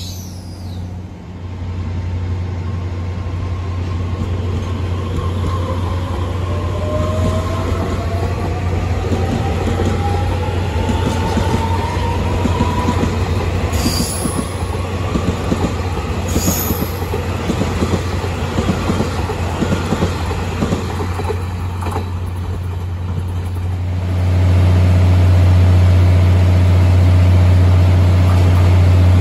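An EMU3000 electric express train pulling away: its traction motor whine rises in pitch as it gathers speed, over wheel noise with a couple of clicks on the track. About 24 seconds in it gives way to the louder, steady hum of a local train pulling in.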